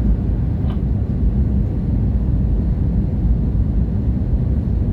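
Steady low rumble of cabin noise inside an Airbus A320-232 on approach to landing: engine and airflow noise heard from a passenger seat.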